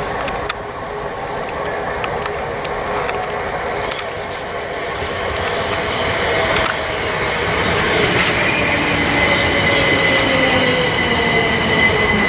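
Southern Class 377 Electrostar electric train running by, with scattered clicks from the wheels at first. About halfway in it grows louder as a train passes close, with a steady high-pitched whine and a lower tone sliding down as it goes by.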